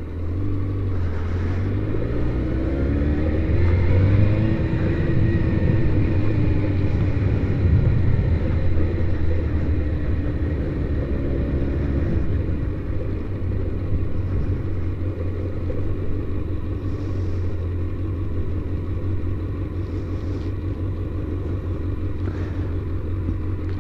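Motorcycle engine running as the bike rides off and picks up speed, its pitch sweeping up in the first few seconds, then running steadily.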